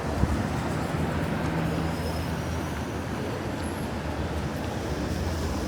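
Street traffic: a steady low engine rumble from a passing heavy vehicle, with a hum that fades out about two and a half seconds in, over a constant wash of city street noise. A brief knock comes right at the start.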